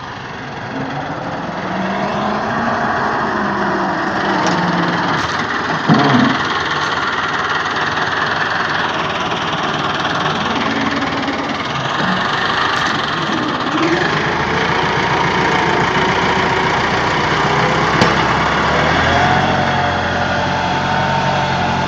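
Massey Ferguson 385 tractor's four-cylinder diesel engine running under load, its pitch rising and falling every few seconds as it drags a levelling plate across ploughed ground. There is a single clunk about six seconds in.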